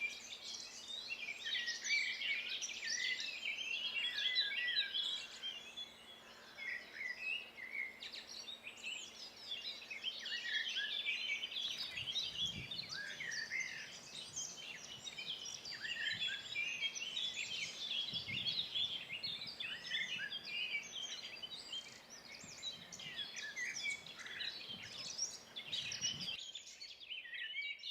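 Chorus of many songbirds singing at once, dense overlapping chirps, trills and warbles without pause.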